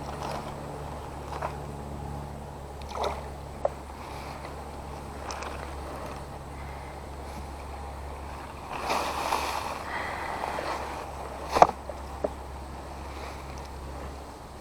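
Water sloshing and splashing, with a longer splash about two-thirds of the way through, and a few sharp clicks and knocks, the loudest just after it, over a steady low rumble.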